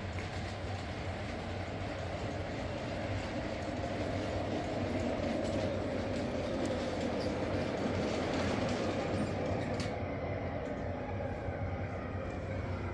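Ride-on miniature railway train, a model Class 08 shunter with its carriages, running steadily along the track with an even rolling rumble of wheels on rail.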